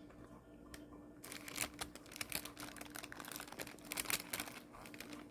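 Close-miked chewing of a chili cheese dog: a dense run of wet, sticky clicks and crackles that starts about a second in and fades near the end.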